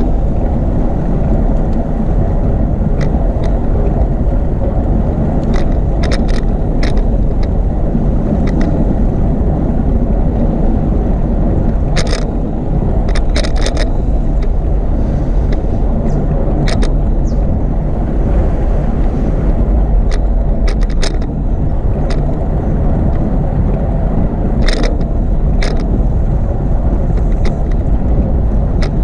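Steady low rumble of wind and riding noise on a camera carried on a moving bicycle, broken by scattered sharp clicks and rattles, some coming in quick clusters of two or three.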